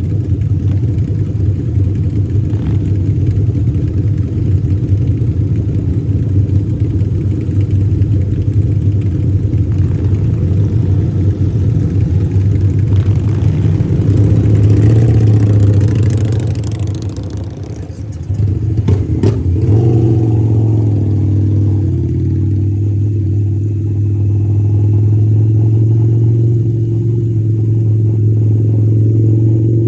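Harley-Davidson V-twin motorcycle engine running steadily under way. About halfway through, the revs rise and then fall away briefly. A couple of sharp clicks follow before the engine picks up again and runs steady.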